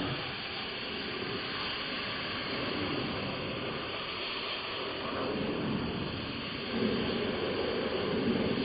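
Arrma Mojave 4S RC truck running: a steady noisy rumble with hiss, getting louder about seven seconds in.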